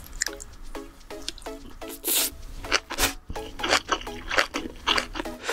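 Close-miked wet chewing and squishing of a big mouthful of cockle bibimbap, over light background music.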